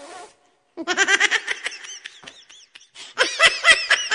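Laughter: a run of rapid repeated 'ha-ha' syllables starting under a second in and fading, then a louder run about three seconds in.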